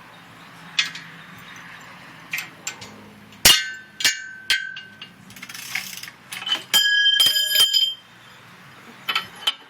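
Metal tools and engine parts being handled: sharp clinks and clanks, one of which leaves a short metallic ring about three and a half seconds in. Near the end comes a quick rattling run of ringing metal clicks lasting about a second.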